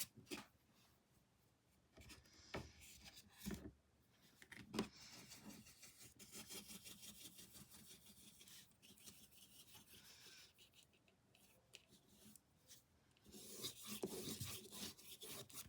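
Paintbrush strokes on canvas: faint, intermittent scratchy rubbing with a few soft taps along the way.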